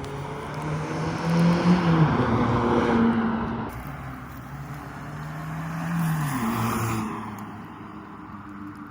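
Scion iM's 1.8-litre four-cylinder engine through an aftermarket DNA Motoring catback exhaust, accelerating. The pitch climbs and drops about two seconds in as the gear changes, then climbs again and falls away around seven seconds in.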